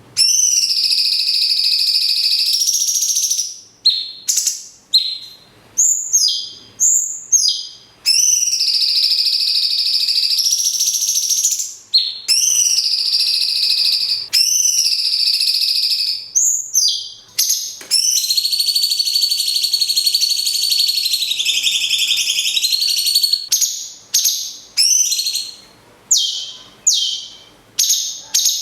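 Cucak cungkok and lovebird calls alternating: long, high, held trilling calls of several seconds each, broken by quick runs of short, sharp chirps.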